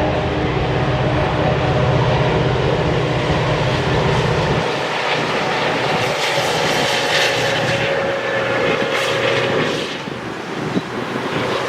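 A passing train: a diesel locomotive's engine drones low, then drops away about four and a half seconds in, leaving the steady rush and rattle of cars rolling by.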